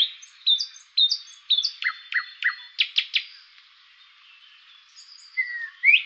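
Small birds chirping and calling: quick downward-sweeping chirps and short whistled notes, easing off into a lull past the middle before more calls near the end.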